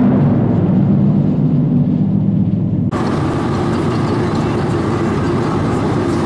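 Car driving: steady engine and road noise. The sound changes abruptly about three seconds in to a noisier, brighter rumble.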